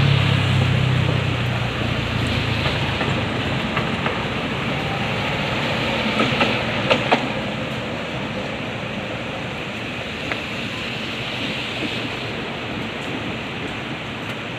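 Steady heavy rain hissing, with a low rumble fading out over the first couple of seconds and a few sharp taps about six to seven seconds in.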